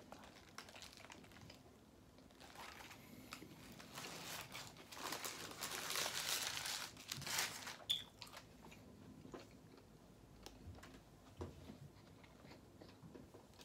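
A person chewing a mouthful of fast-food burger, with small wet mouth clicks. A paper wrapper crinkles for a couple of seconds in the middle.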